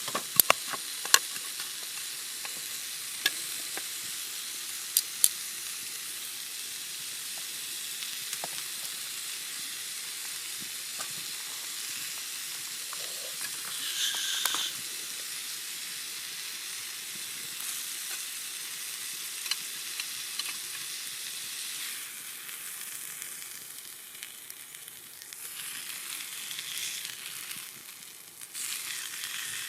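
Steak sizzling on a steel griddle plate over a campfire: a steady hiss with sharp fat pops, several in the first few seconds. The sizzle thins out for a few seconds late on and comes back near the end.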